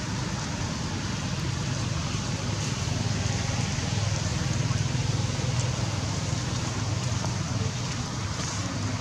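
Steady hiss of rain falling on grass and leaves, over a constant low rumble.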